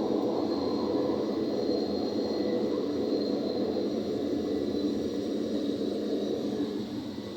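Cessna Caravan's single Pratt & Whitney PT6A turboprop running at takeoff power: a steady heavy drone with a thin high whine on top, easing slightly near the end.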